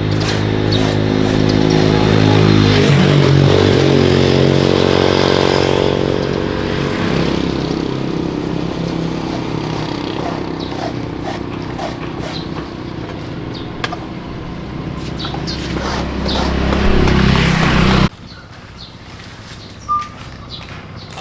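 A motor running with a steady, loud hum whose pitch shifts about three seconds in; it stops abruptly near the end, leaving faint ticks.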